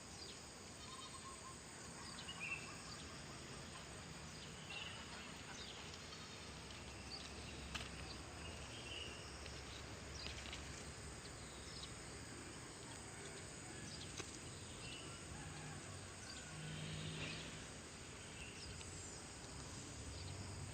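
Outdoor ambience: a steady insect hum with scattered short, high chirps.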